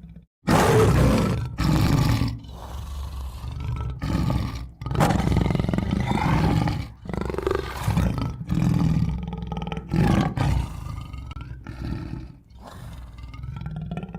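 Tiger roaring again and again in a series of loud roars with short breaks between them, starting about half a second in.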